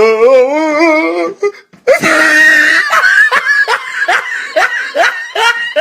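Meme sound-effect clips of human voices: a warbling, wobbling vocal sound for about a second, then after a short break a noisy burst, then a person laughing hard in quick repeated bursts.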